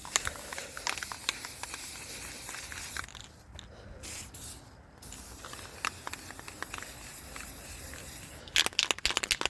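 Aerosol spray paint can spraying in long hissing passes, with two short breaks about three and five seconds in. Near the end comes a quick run of sharp clicks.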